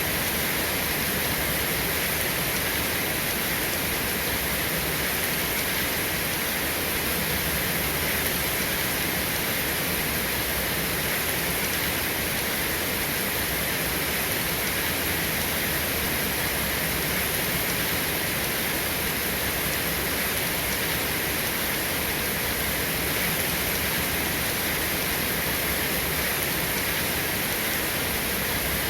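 Steady rain falling, an even rushing hiss with no changes and no thunder.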